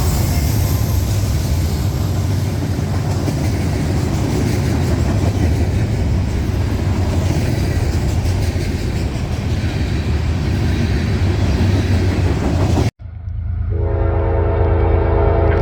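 Train passing close by: a loud, steady rumble of the train on the rails. After a sudden cut near the end, a locomotive air horn sounds a held chord.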